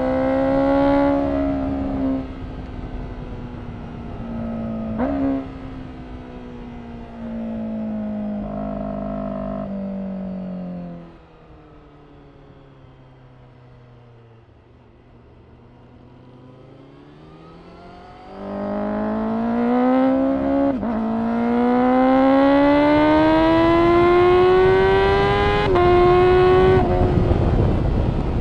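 Honda CBR1000RR-R SP Fireblade's inline-four through an Akrapovič exhaust, under way. It accelerates with a quick upshift about five seconds in, then eases off with falling revs to a quieter low-rev stretch in the middle. It then pulls hard again, revs climbing through two more upshifts, with wind noise building near the end.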